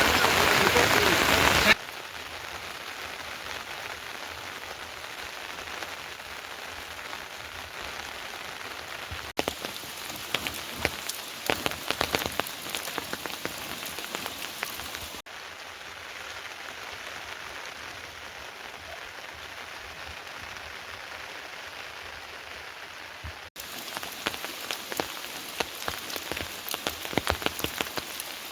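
Rain falling: a heavy, loud downpour for the first second or two, then softer steady rain. In some stretches many close drops tick as they fall, and the sound changes abruptly several times.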